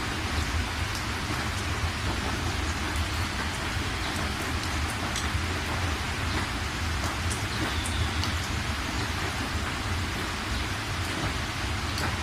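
Steady rain falling, with scattered sharp drip ticks and a low rumble underneath.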